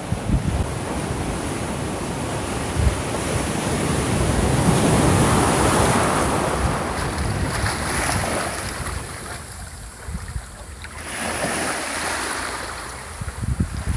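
Sea waves washing onto a shore, the surf swelling and receding in slow surges, with a low rumble of wind on the microphone.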